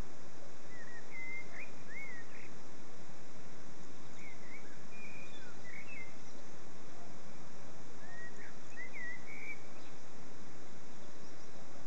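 A songbird singing three short phrases of quick rising and falling chirps, about four seconds apart, over a steady background hiss.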